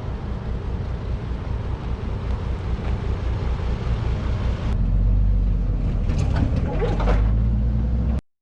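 A vehicle engine running with a steady, throbbing low rumble. It grows louder about five seconds in and cuts out abruptly just before the end.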